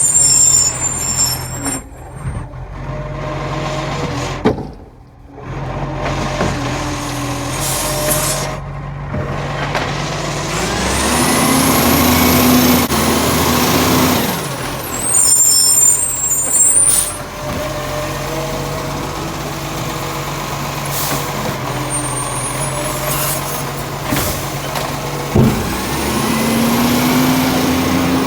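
Side-loading green-waste garbage truck working bins: the diesel engine runs steadily and twice revs up and holds while the lifting arm works, and short high air-brake hisses come at the start and again about halfway through, with a couple of sharp knocks.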